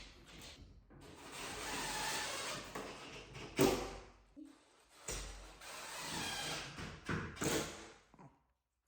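Handling noise: stretches of rustling or scraping, with a sharp knock about three and a half seconds in and two more knocks near the end.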